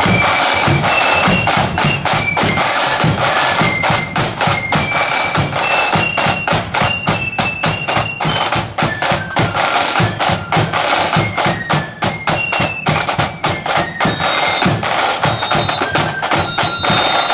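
Marching flute band playing a high melody over rapid snare drumming and bass drum beats.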